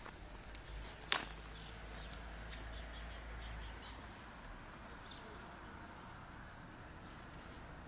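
Faint bird chirps over a low rumble that fades out about halfway through, with one sharp click about a second in.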